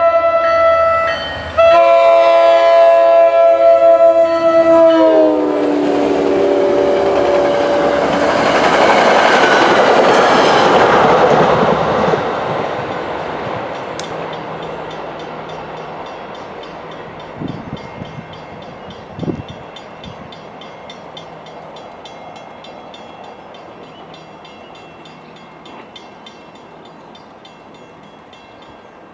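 MBTA commuter train's horn sounding a multi-tone chord, breaking off briefly near the start, then dropping in pitch as the train passes. The rush of the passing train swells, then slowly fades as it goes away.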